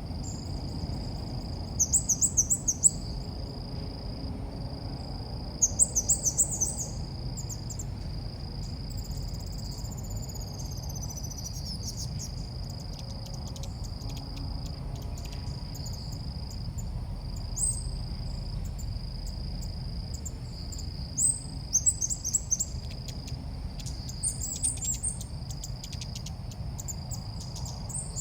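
Ốc mít birds calling: short bursts of rapid, very high chirping notes, repeated several times, the kind of call used to lure the birds in for trapping. Under them runs a steady high buzzing tone that breaks off at intervals of about a second, like an insect, over a low background hum.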